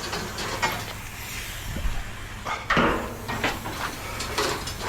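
Pieces of scrap metal being pulled off a trailer and dropped, making a few scattered clanks and knocks, the loudest a little under three seconds in.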